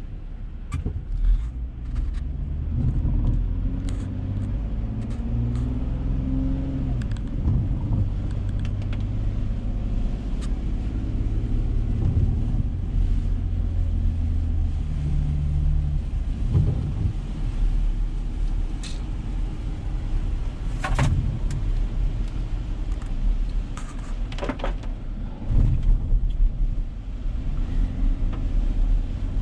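Car engine and road noise heard from inside the cabin while driving, a low rumble whose engine note rises and falls with speed, with a few scattered knocks and clicks.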